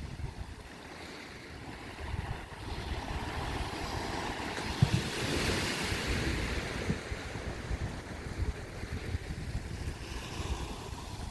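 Sea waves washing against a rocky karst shore, one surge building to a rush about halfway through and then easing, with wind buffeting the microphone.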